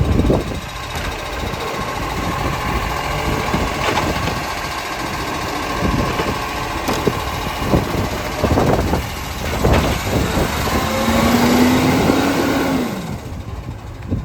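Garbage truck engine running, with repeated clunks and bangs and a whine that rises and then falls near the end.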